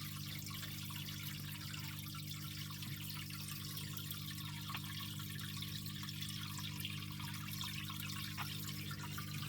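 Aquarium filters running in a terrapin tank: water trickling and splashing into the tank over a steady low hum.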